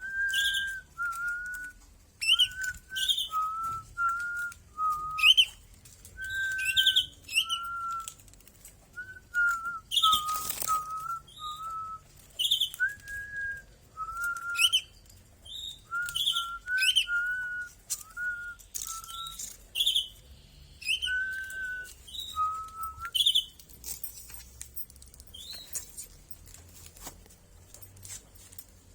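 Repeated short whistled notes, each level or gently falling, about one a second, most paired with a quick higher chirp, with light clicks in between.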